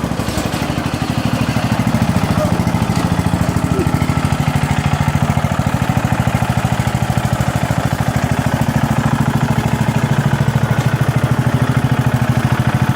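Riding lawn mower engine running steadily with a rapid, even firing rhythm, a little louder from about two seconds in; the engine is firing again after it would not fire.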